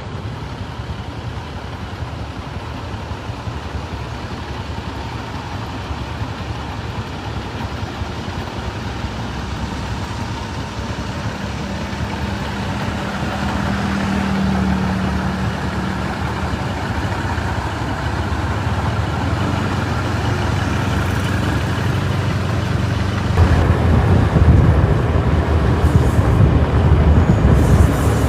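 A train approaching on the line: a low rumble that builds steadily and becomes much louder about 23 seconds in.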